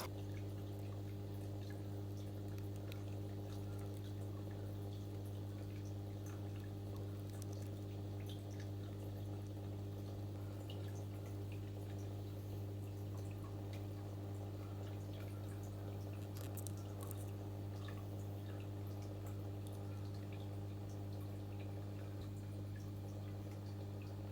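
Steady low electrical hum from aquarium equipment such as a pump or filter motor, with faint scattered drips of water.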